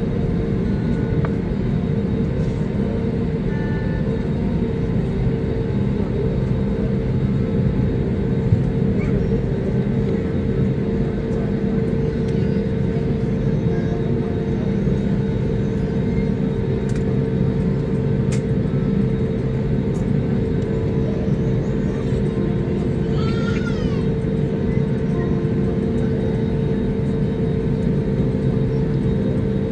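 Steady drone of jet engines heard inside an airliner cabin, with a constant low hum and steady tones.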